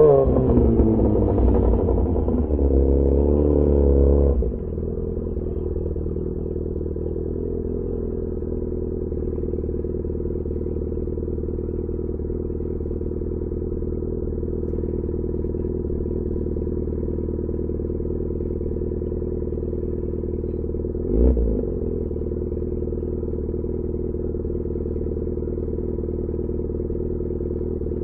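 Yamaha XJ6 S inline-four motorcycle engine with an SC-Project aftermarket exhaust, coming down from higher revs over the first four seconds or so, then idling steadily. About 21 seconds in there is one short throttle blip.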